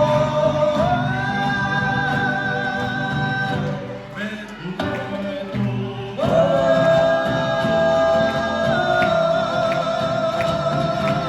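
Folk song ending with long held final notes sung over the band's accompaniment: one long note, a short break about four seconds in, then a last held note.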